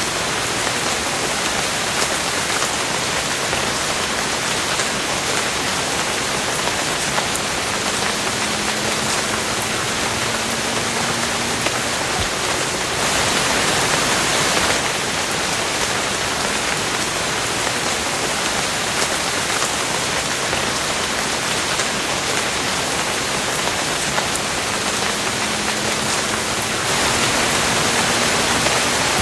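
Steady rain falling, a dense even hiss that swells a little for a couple of seconds around the middle and again near the end.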